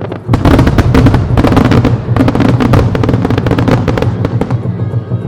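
Starmine fireworks firing in a rapid barrage: a dense run of shell bursts, bangs and crackles that starts about a third of a second in and thins out about four and a half seconds in.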